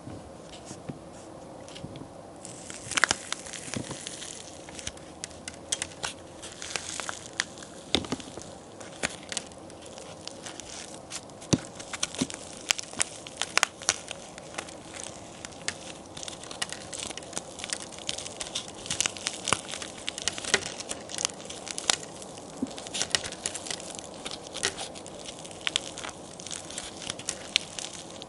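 Homemade plaster-and-clay toy cookies being broken apart: a dense run of sharp cracks and crumbling, starting about two seconds in.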